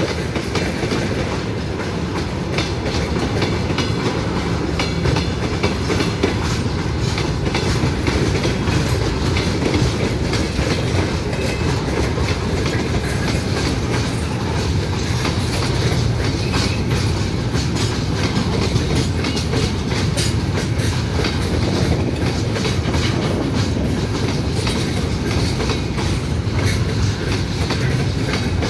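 A train rolling past close by, its wheels clattering steadily over the rail joints.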